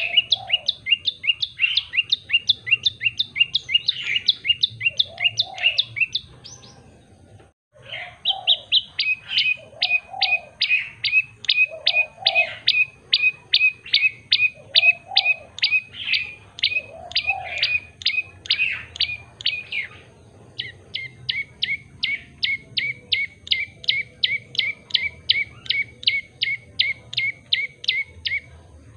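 Tailorbird singing: long runs of rapid, sharp repeated chip notes, about five a second, in three strings broken by short pauses about seven and twenty seconds in, the last string lower in pitch.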